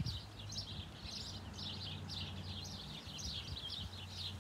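Small birds chirping over and over, about two or three short high chirps a second, with a low steady hum underneath.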